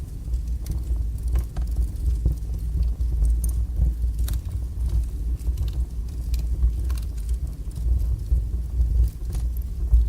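Wood fire burning strongly in a fireplace: a steady low rumble of flames with scattered sharp crackles and pops.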